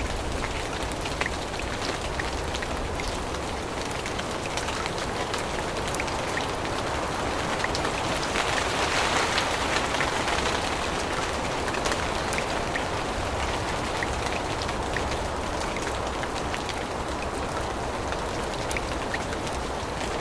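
Steady rain falling through forest, with many small drop ticks scattered through it. It grows a little louder for a few seconds around the middle.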